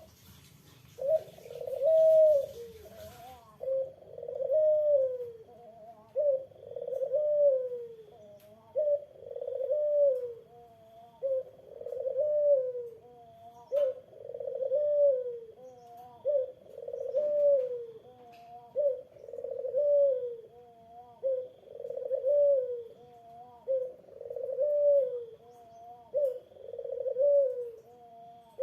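Ringneck dove (puter) cooing over and over, a rising-then-falling coo repeated about every two and a half seconds.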